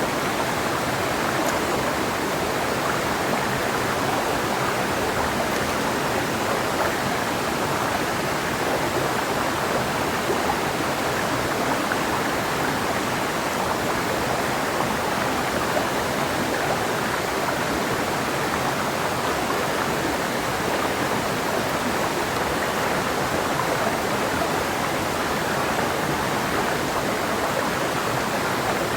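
Clear mountain river rushing over rocks: a steady, even rush of water with no change in level.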